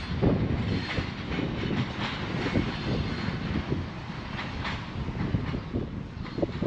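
A train rolling past on the tracks: a steady rumble with irregular knocks and clatter from the wheels on the rails.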